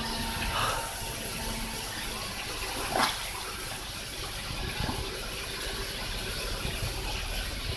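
Steady rush of running water, with a short sharp sound about three seconds in.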